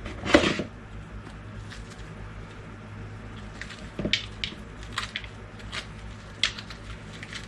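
Seeds and stringy pulp being scooped and scraped out of a halved butternut squash: short irregular scrapes and soft wet squishes, with a louder scrape just after the start.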